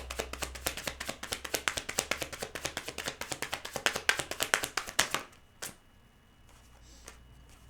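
A deck of tarot cards being shuffled by hand: a fast run of light card slaps, about eight a second, that stops suddenly about five seconds in, followed by one more single slap.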